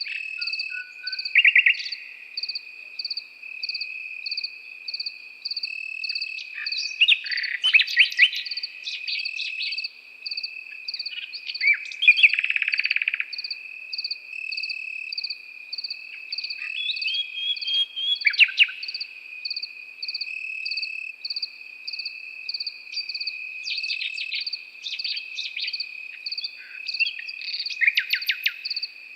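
Common nightingale singing short, varied phrases every few seconds, over crickets chirping in a steady, even rhythm with a continuous high trill beneath.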